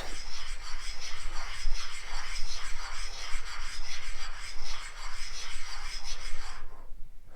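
A spacer being rubbed round by hand on a flat lap with abrasive lapping compound: a steady gritty scraping that stops briefly near the end. The compound is breaking down into finer grit as the lap dries out, the finishing stage of flat lapping.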